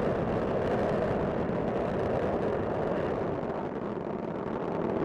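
Space Shuttle Discovery's solid rocket boosters and main engines firing during ascent, a steady low rumble with no breaks.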